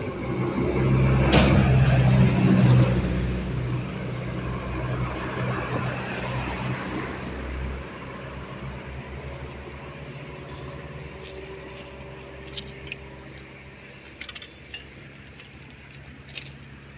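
A motor vehicle's engine running with a steady low hum, loudest in the first few seconds, then fading gradually as it moves away, with a few light clicks near the end.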